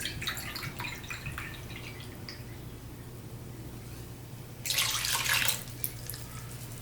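Liquid being poured and dripping into a pot: light drips and ticks at first, then a louder rush of pouring lasting about a second near the end.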